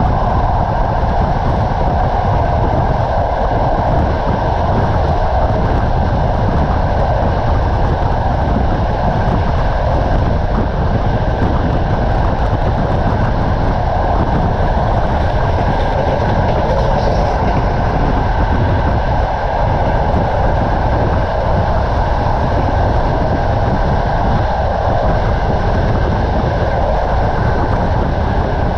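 Passenger train running along the line, heard from inside a carriage by the window: a steady, loud noise of the wheels rolling on the track.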